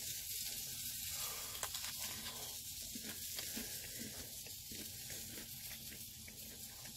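Faint crunching as a crisp, dark-browned pizza crust is bitten and chewed, a few small crackles over a steady hiss.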